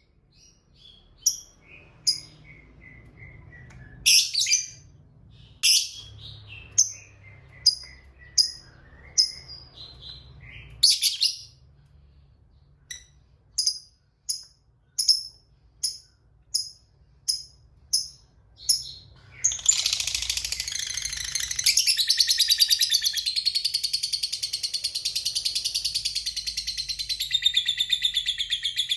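Lovebird calling: sharp single high chirps about once a second, with quieter falling notes between them, then from about two-thirds of the way through a long, unbroken high chattering trill. This is the 'ngekek panjang' (long chatter) prized in fighter lovebirds.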